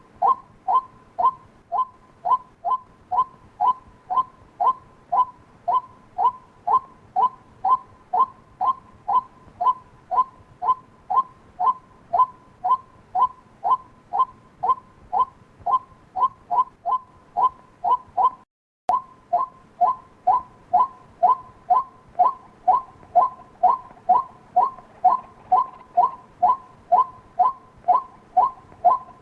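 White-breasted waterhen calls repeated over and over, a little over two short falling notes a second, with a brief cut about two-thirds of the way through. This is a waterhen lure call of the kind played to draw the birds in.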